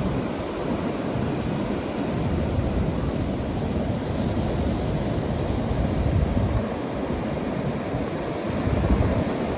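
Ocean surf breaking on a sandy beach, a steady rushing wash, with wind buffeting the microphone in a low rumble.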